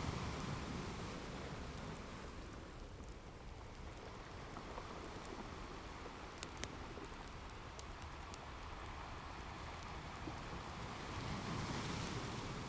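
Ocean waves washing in, swelling at the start and again about eleven seconds in, mixed with the sparse pops and crackles of a wood fire.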